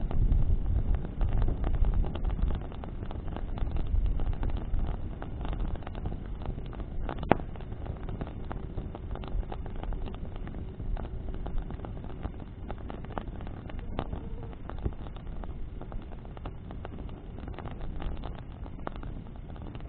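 Bonfire burning in the wind: scattered crackles and pops of burning wood, with one sharp pop about seven seconds in, over a low wind rumble on the microphone that is heaviest in the first few seconds and then eases.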